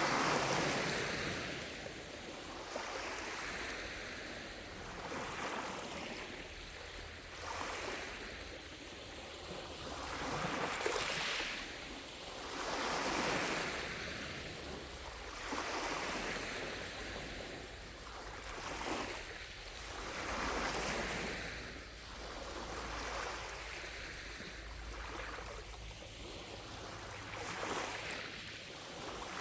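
Small lake waves lapping against the shore, a soft wash that swells and falls back every two seconds or so.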